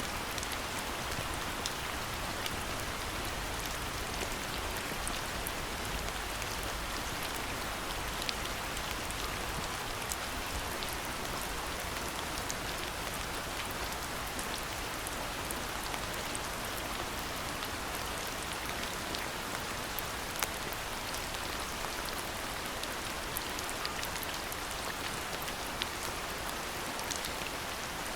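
Steady rainfall, with scattered sharp ticks of individual drops landing close by.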